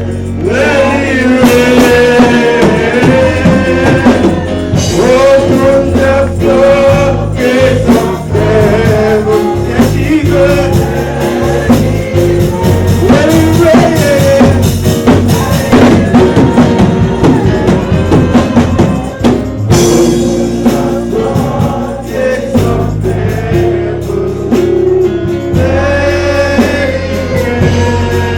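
Gospel praise music: voices singing over a band with a steady beat and bass line.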